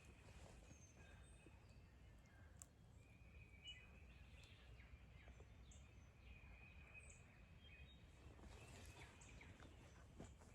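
Near silence: a faint low wind rumble with faint, distant bird calls, including several repeated calls about a second long and a few short high chirps.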